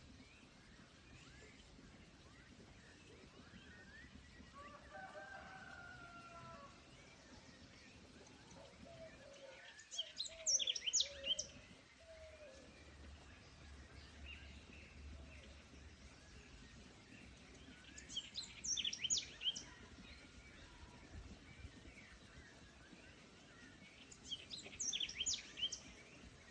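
Forest ambience: a songbird sings three short bursts of rapid high notes, roughly eight seconds apart, over a faint steady background hiss. A fainter, lower drawn-out call comes about five seconds in.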